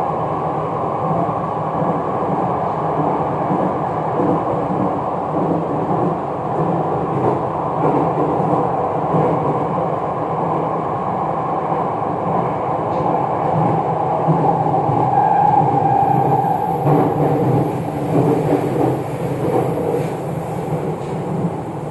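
Jakarta MRT train running between stations, heard from inside the carriage: a steady rumble of wheels and running gear. A whine grows briefly louder about fifteen seconds in.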